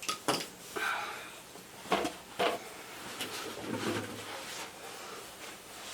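A few sharp clicks and light knocks of hand tools and plastic plumbing parts being handled, with soft rustling between them.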